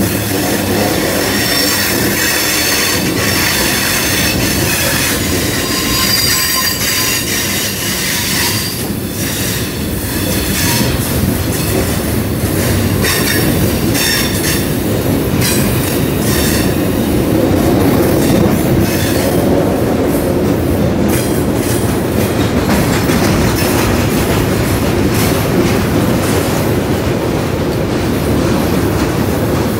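Providence and Worcester freight cars rolling past close by with a steady rumble. Thin high-pitched wheel squeal comes through the first third, and a run of clicks from the wheels crossing rail joints follows in the middle.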